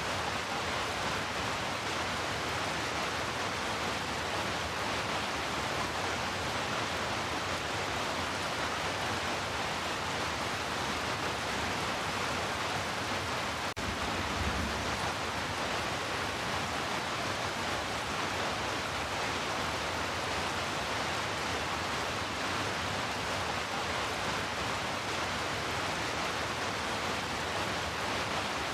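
Steady heavy rain, an even hiss of downpour. About halfway through there is a brief click, followed by a short low rumble.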